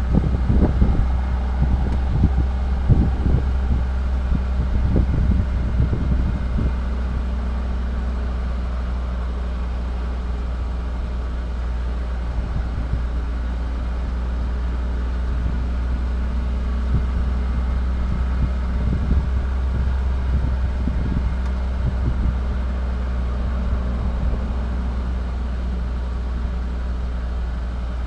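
Parked vehicle's engine idling, a steady low rumble heard from inside the cabin, with a few irregular low thumps in the first several seconds and again later.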